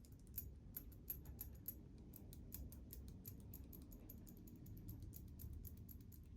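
Light, irregular clicks and taps of small metal parts of a Märklin HR 800 N model locomotive being handled and fitted, over a faint low hum.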